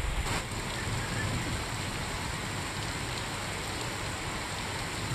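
Heavy monsoon rain falling on a street: a steady hiss with a low rumble underneath, after a brief low thump at the very start.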